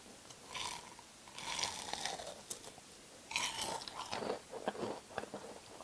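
Close-up crunching and chewing of a breaded, deep-fried pork cutlet: several crisp bites and chews, the fried crust crackling.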